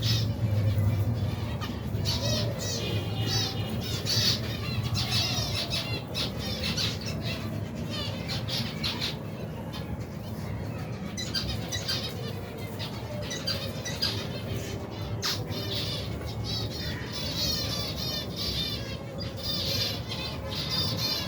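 A colony of many finches chirping and calling at once, with quick repeated high chirps that overlap without pause, occasional wing flutters and clicks, over a low steady hum.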